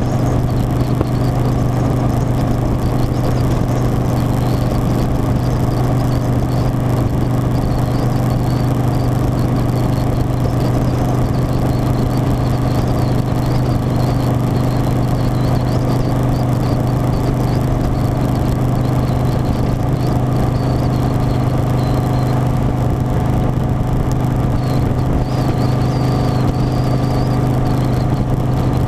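Harley-Davidson Softail Standard's V-twin engine running at a steady speed, an even drone that holds one pitch without revving up or down.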